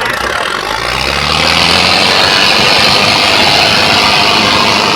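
Diesel tractor engines revving up over the first second or so, then running hard and loud under load, as in a tractor tug-of-war pull.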